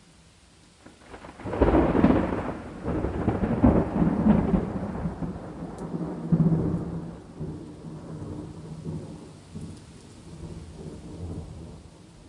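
A thunderclap breaks about a second and a half in with a sharp crackle, then rolls on in waves of low rumbling that slowly die away, over a faint steady hiss of rain.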